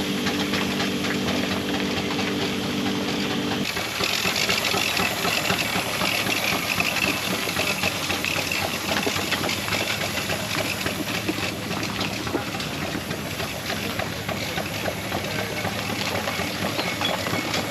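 Scale-model Burrell single-cylinder traction engine running under steam: a busy clatter of quick ticks with steam hissing. A steady hum is heard under it at first and stops abruptly a few seconds in.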